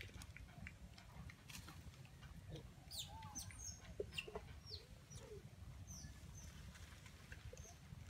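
Faint, scattered bird calls: quick high chirps that fall in pitch, with a few lower clucking notes around the middle.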